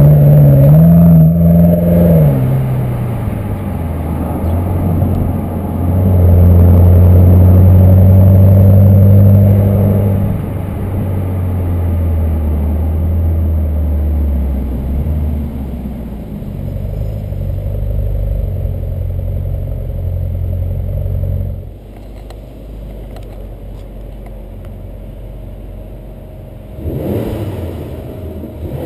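BMW X6 M's 4.4-litre twin-turbo V8 engine and exhaust under way. The pitch shifts up and down in the first couple of seconds, then the engine holds a loud steady drone from about 6 to 10 seconds in and gradually eases off. It drops much quieter about 21 seconds in and rises again near the end.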